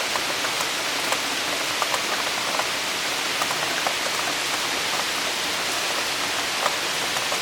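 Heavy cloudburst rain pouring down: a steady hiss with many sharp drop impacts scattered through it.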